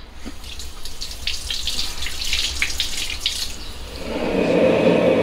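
Tap water running and splashing for about three seconds. A steady low rumble then sets in near the end.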